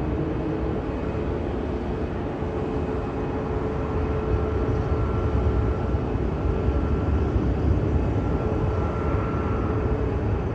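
Jet airliner engines running, a steady rumble with a faint whine over it that grows heavier about four seconds in.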